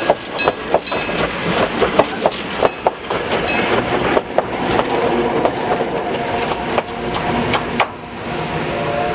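Coaches of a steam-hauled passenger train rolling over a level crossing, wheels clacking over the rail joints and crossing. The crossing's electric bell rings, and the clacking stops about eight seconds in as the train clears.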